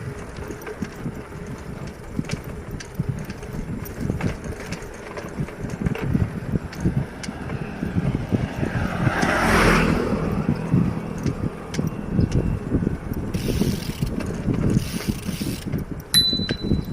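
Bicycle ride heard from on the bike: a steady low rumble with small rattles and clicks from riding over the road. About nine seconds in, a passing vehicle swells and fades. Near the end comes a short high squeak.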